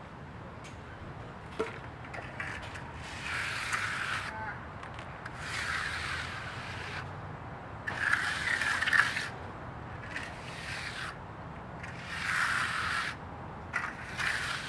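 Repeated scraping strokes, about one every two seconds and each lasting around a second, over a steady low hum.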